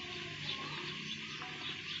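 Faint, scattered high-pitched chirps over a steady background hiss; no loud dove call.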